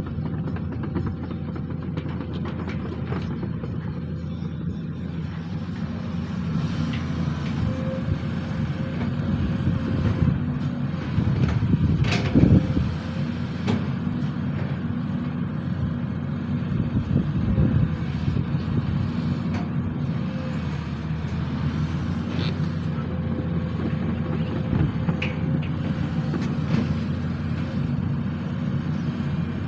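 Sany SY215C hydraulic excavator's diesel engine running steadily under work, with a louder clunk about twelve seconds in and a couple of small knocks later.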